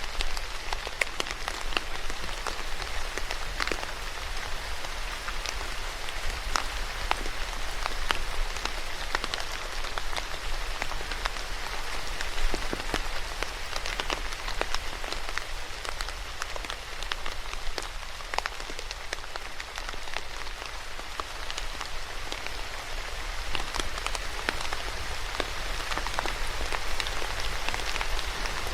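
Steady rain falling on a hard surface, a continuous hiss with many separate drops ticking through it, over a faint low rumble.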